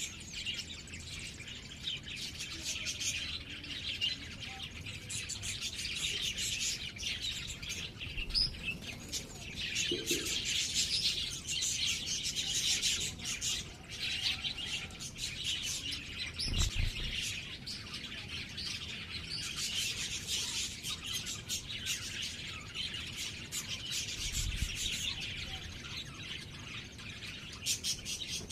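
Small birds chirping continuously in quick, high-pitched chirps, with a few brief low thumps.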